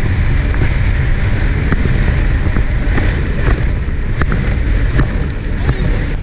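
A jet ski running on the water, with a steady low rumble and heavy wind buffeting on the microphone.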